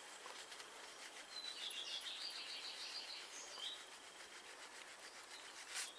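Faint bird chirping over quiet outdoor background noise, with a brief click near the end.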